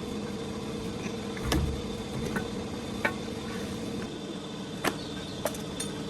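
A handful of sharp clicks and knocks at uneven intervals, the loudest about one and a half seconds in, over a steady hum.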